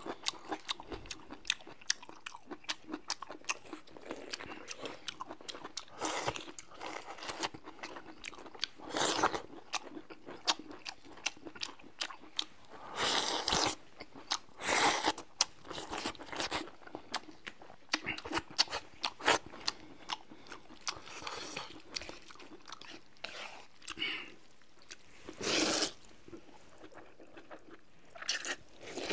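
Close-up eating sounds: people chewing and crunching food with many small clicks and mouth smacks, and several short, louder noisy bursts.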